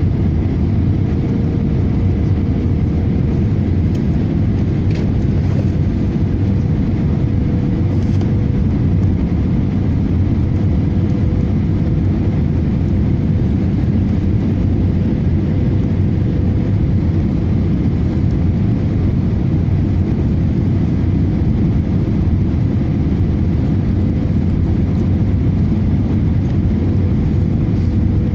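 Airbus A318 airliner in flight: a steady rumble of engines and airflow, with a faint steady whine over it.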